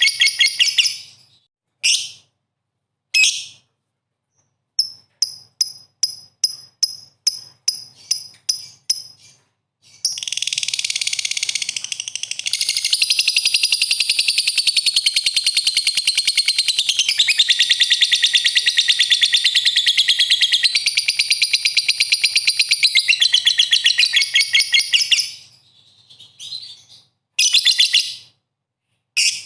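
A songbird singing: a few short phrases, then a run of about ten sharp repeated notes, about two a second, then a long fast unbroken warble lasting about fifteen seconds, and a few short phrases again near the end.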